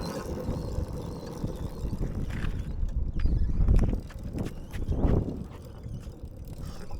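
Wind buffeting the microphone and road rumble while riding a minibike, uneven in loudness, with a few sharp clicks or rattles from about two and a half seconds in.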